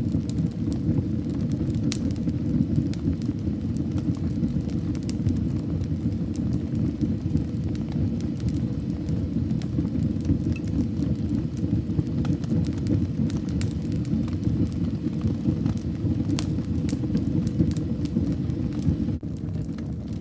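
A fire burning in a fireplace: a steady low rumble of flames with frequent scattered crackles and pops. The sound dips briefly about a second before the end.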